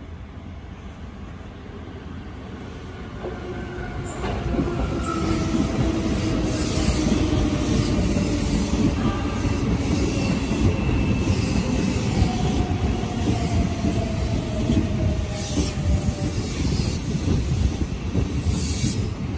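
Electric commuter train running into a station platform, growing louder as it arrives. Its wheels squeal repeatedly on the curve and a falling motor whine comes in as it slows.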